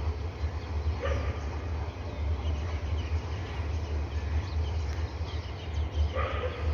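A dog barking twice, once about a second in and again, longer, near the end, over a steady low rumble.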